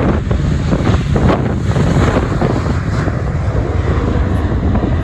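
Wind buffeting the camera microphone: a loud, steady, rumbling noise.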